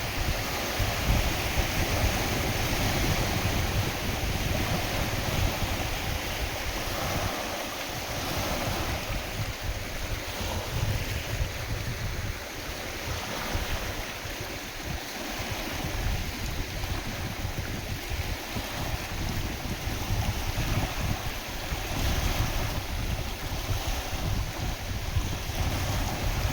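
Lake waves washing and splashing in a strong wind, with the wind buffeting the microphone in gusts as a low rumble. The wind eases a little partway through.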